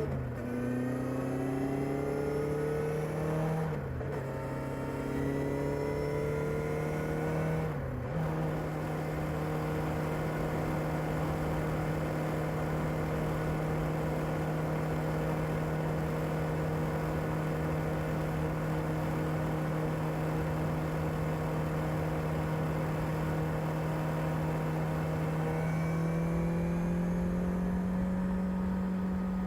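Kawasaki ZR-7S's air-cooled inline-four on its stock exhaust, pulling up through the revs with a short break in the sound twice, about 4 and 8 seconds in, like upshifts. It then holds a steady engine speed for most of the rest, with a slight rise near the end.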